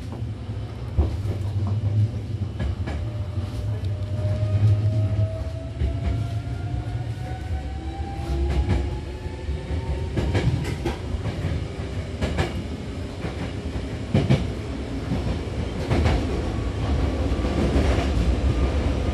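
Hankyu commuter train heard from inside the car while running: a steady low rumble with a motor whine slowly rising in pitch, and the wheels clacking over rail joints at irregular intervals.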